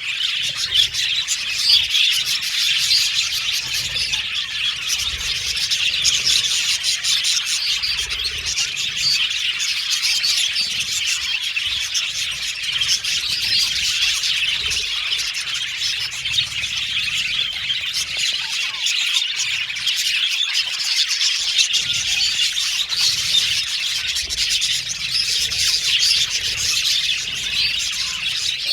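A flock of budgerigars chattering and chirping all at once, a dense continuous warble of many overlapping calls.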